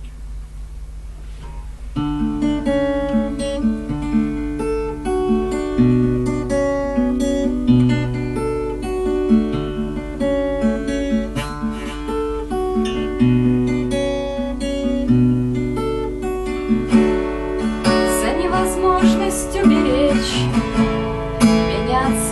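Acoustic guitar playing a song's introduction, starting about two seconds in: picked notes over a repeating bass line.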